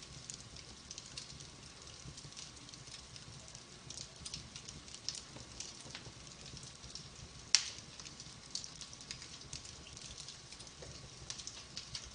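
Wood fire crackling in a fireplace: a steady run of small snaps and pops over a low rumble, with one sharp, louder pop about seven and a half seconds in.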